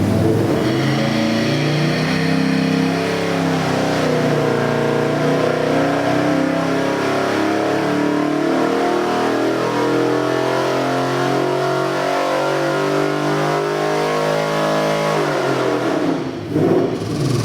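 Fuel-injected Ford 302 small-block V8 running on an engine stand and being revved repeatedly, its pitch stepping up and down with the throttle and dropping back near the end.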